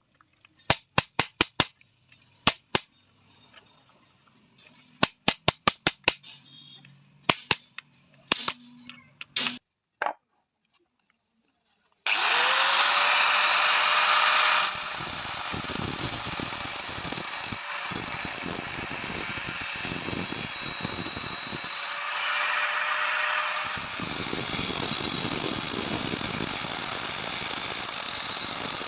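A hammer striking metal in quick groups of ringing blows; then, after a short pause, an electric power tool starts up and runs steadily with a constant whine.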